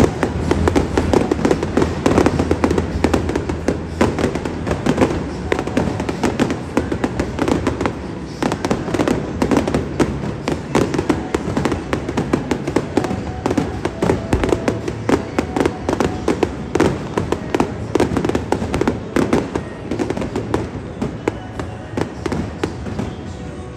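Fireworks display with a dense, continuous run of rapid crackles and pops from bursting shells and crackling stars.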